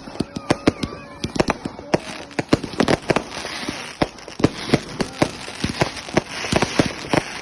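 Fireworks going off: a rapid, irregular run of bangs and crackles, several a second.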